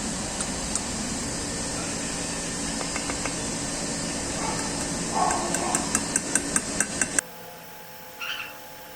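A quick run of about ten light hammer taps on metal, about five a second, over a steady workshop hum. Then it cuts off suddenly.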